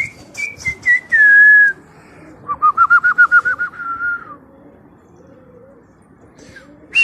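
A person whistling loud and clear: a long whistle falling in pitch, then a quick run of about ten short whistled notes, and another falling whistle right at the end. This is a pigeon fancier's whistling to his flock in flight.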